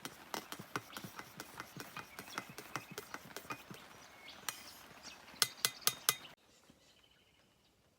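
Rapid, irregular sharp clicks and knocks, about four or five a second, ending in four louder knocks before cutting off abruptly about six seconds in.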